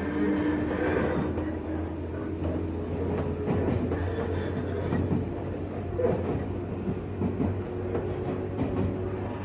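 A JR West 201 series electric train running, heard from inside its motor car: a steady low hum with a few held tones from the traction motors and gears, and occasional knocks of the wheels on the rails.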